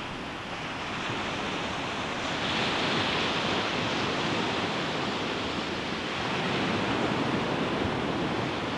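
Ocean waves breaking on a beach: a continuous wash of surf that swells about a second in, with a hissing peak about three seconds in and another swell near the end.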